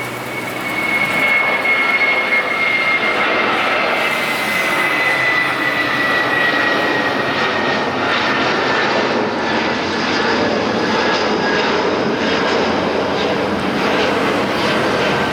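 Jet airliner taking off and passing close by: loud, steady engine noise with a high whine that slowly falls in pitch.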